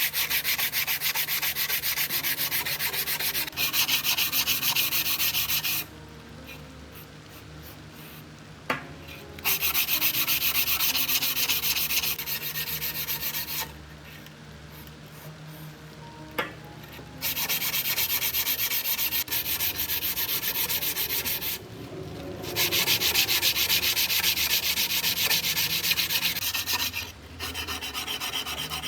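Abrasive hand sanding of a rusty knife: rapid back-and-forth scrubbing strokes in four long runs separated by short pauses, with a single sharp tap in two of the pauses.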